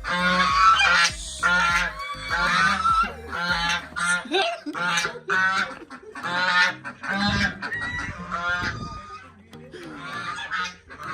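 A goose honking loudly and repeatedly, about one call a second with a short break near the end: the aggressive alarm honking of a bird that has just gone for a person passing it.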